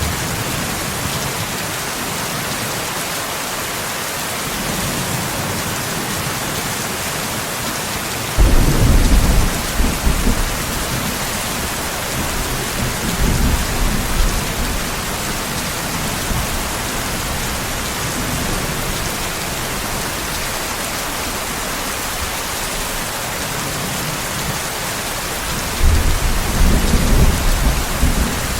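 Steady heavy rain hissing, with thunder rumbling in three low surges: a sudden one about eight seconds in, a weaker one a few seconds later, and another starting near the end.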